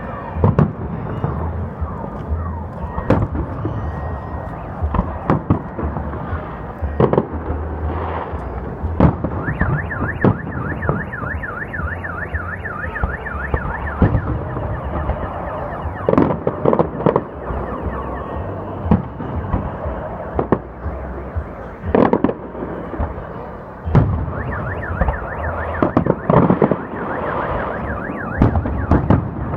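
Festive fireworks salute: a string of sharp bangs at irregular intervals. A car alarm warbles over them from about ten to fourteen seconds in and again near the end, set off by the blasts.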